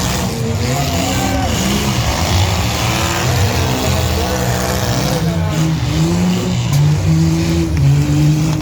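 Engines of several mid-size pickup trucks racing on a figure-eight track, running together and revving, their pitches rising and falling as they accelerate and slow.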